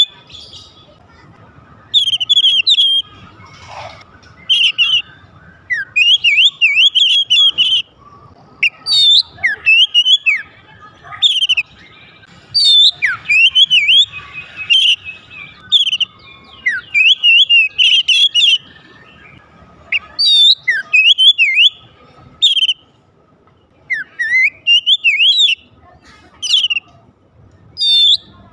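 Oriental magpie-robin (kacer) singing: short, loud phrases of rapid whistled notes that sweep up and down, repeated every second or two with brief pauses between.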